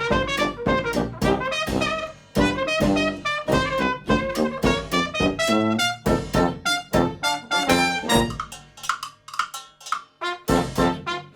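Hot jazz band with trumpet and trombone playing over a steady beat of drums.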